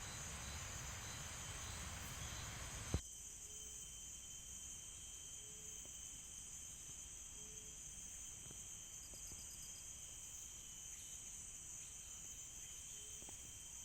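Night forest insect chorus: a steady high-pitched trilling, with a short low note repeating about every two seconds. A steady hiss for the first three seconds cuts off with a click.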